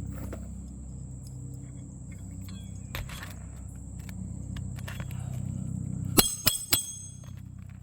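Roofing hatchet driving a nail into a new 3-tab asphalt shingle: three quick strikes with a metallic ring, a little after six seconds in.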